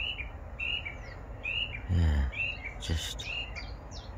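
A small songbird singing a quick series of short, high chirps, each sliding down in pitch, about two a second. A brief low human murmur comes about two seconds in.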